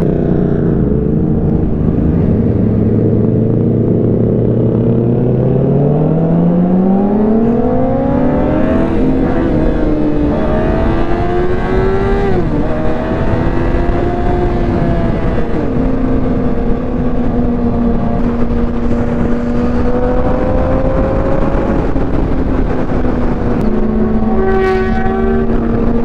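Motorcycle engine under way, its note climbing steadily as it accelerates a few seconds in, then holding and easing off, over heavy wind noise on the microphone. A short, sharp rise in pitch comes near the end.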